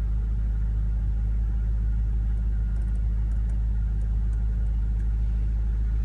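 The M5's 4.4-litre twin-turbo V8 idling: a steady low rumble heard from inside the cabin. A few faint clicks come from the iDrive controller knob being turned through the menu.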